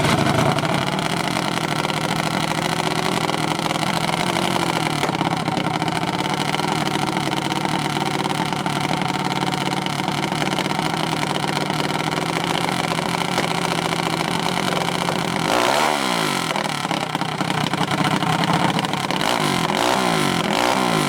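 Small minibike engine running steadily, then in the last few seconds its speed rising and falling a few times as it is revved.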